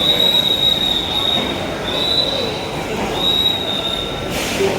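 Dhaka Metro train on the rails: a high, thin wheel squeal comes and goes in stretches of a second or two over a steady rumble, with a short hiss near the end.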